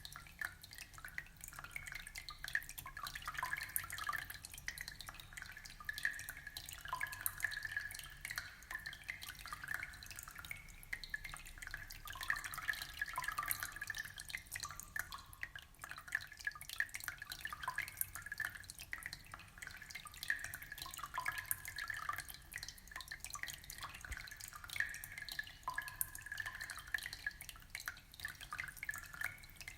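Aquarium water trickling and bubbling: a steady stream of small irregular drips and plinks.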